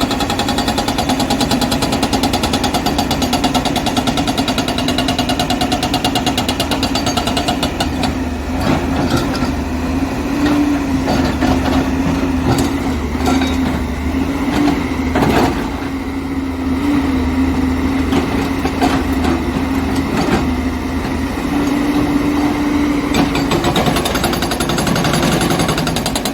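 JCB excavator's hydraulic rock breaker hammering rapidly against rock over the diesel engine. The hammering stops after about eight seconds, leaving the engine running with scattered knocks of rock. It starts hammering again near the end.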